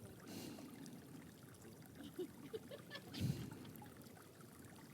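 Faint outdoor ambience: a low steady hiss with a few brief, faint chirp-like blips and a soft low thud a little after three seconds.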